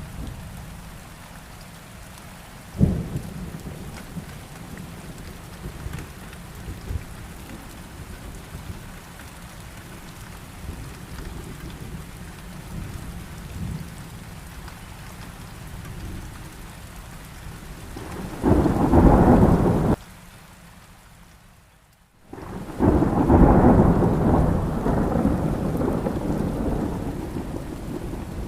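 Heavy rain falling steadily through a thunderstorm. A sharp thunderclap comes about three seconds in. Near two-thirds of the way through, a loud roll of thunder cuts off suddenly, the sound drops almost to nothing for a couple of seconds, and then another long roll of thunder rumbles and slowly fades.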